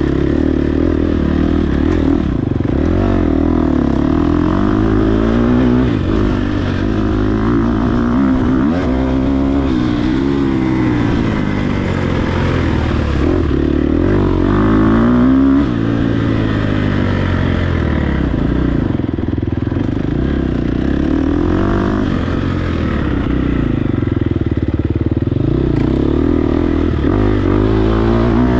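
Dirt bike engine revving hard and easing off again and again as it is ridden through the gears, its pitch rising and falling every second or two.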